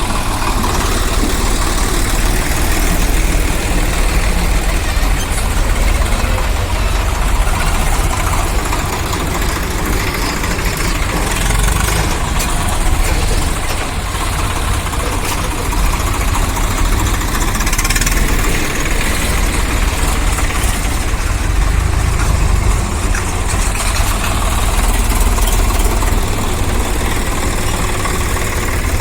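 Large diesel engine of heavy earth-moving or farm machinery running steadily at an even, low speed.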